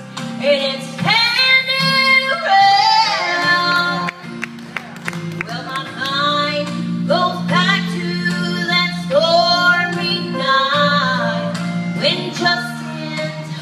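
A song sung by women's voices over steady instrumental accompaniment.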